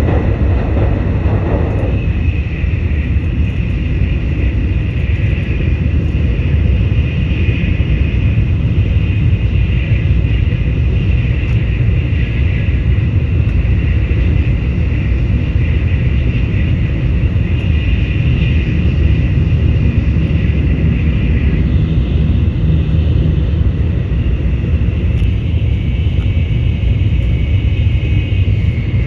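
Shinkansen bullet train running at speed, heard from inside the passenger car: a loud, steady rumble with a fainter hiss above it.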